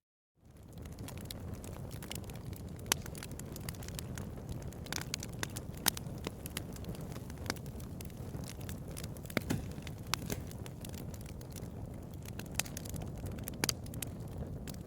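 Wood fire burning: irregular sharp pops and snaps over a low, steady rumble. The sound fades back in from a brief silence at the very start.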